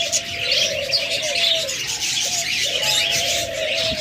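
A flock of budgerigars chirping and chattering together, with several low, drawn-out coos running underneath.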